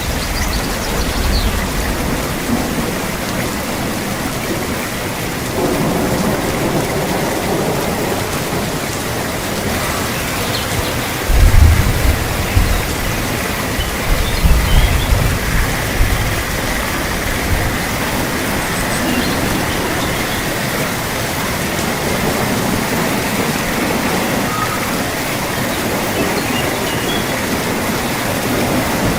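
Steady rain pouring down, with a low rumble of thunder that sets in suddenly about eleven seconds in and fades over several seconds.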